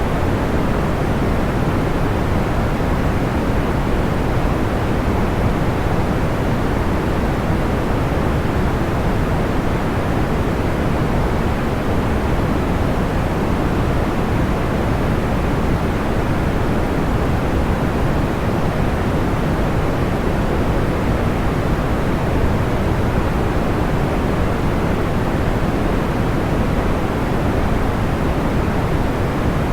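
Steady, deep white noise for sleep: an even rush that never changes, heavy in the low end and dull at the top.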